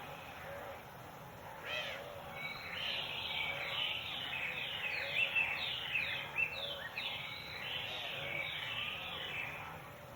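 Several birds calling together: a dense run of quick falling chirps starts about two and a half seconds in and thins out near the end, over softer, lower repeated calls.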